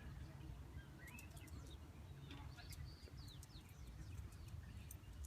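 Faint birds chirping, a few short calls and sliding notes, over a low steady outdoor rumble.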